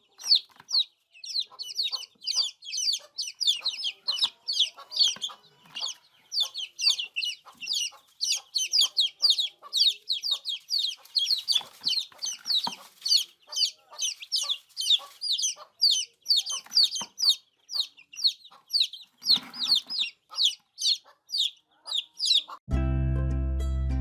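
Baby chicks peeping: a dense, continuous run of short, high-pitched peeps, several a second, with calls overlapping as from more than one chick. Plucked-string music cuts in near the end.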